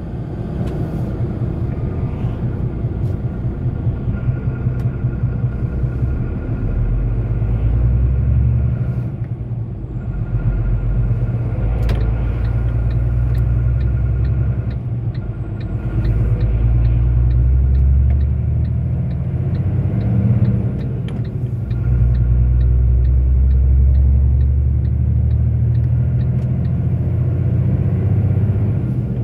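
Low rumble of a 44-ton articulated truck's engine and drivetrain heard from inside the cab while driving, its low tone shifting a few times through the stretch. Through the second half a faint, regular ticking sounds about twice a second.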